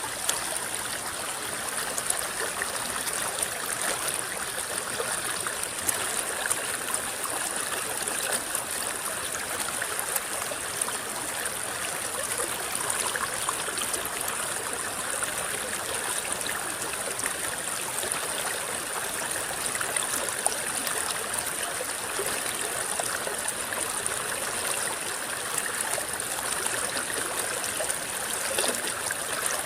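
River water rippling and babbling steadily, with small splashes popping out now and then.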